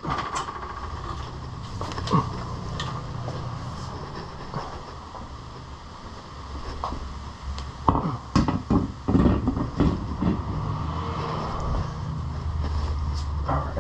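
Metal clicks and clanks of hand tools at work on the car's front-end bolts, bunched together about eight seconds in, over a steady low hum.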